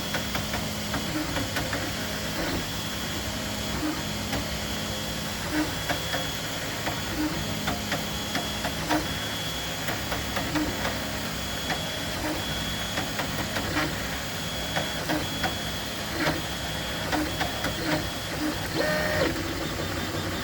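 Dremel 3D20 3D printer running, with on-and-off whining tones, a soft bump about once a second and scattered sharp clicks. These are the odd noises that the printer has suddenly started to make, which the owner suspects come from the extruder.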